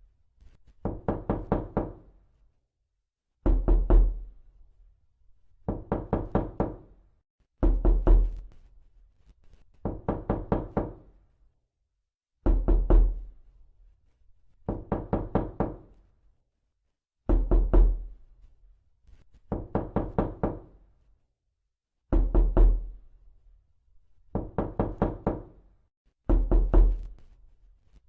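Repeated knocking in quick bursts of five or six knocks, one burst every two seconds or so, alternating between heavier knocks with a deep thud and lighter ones.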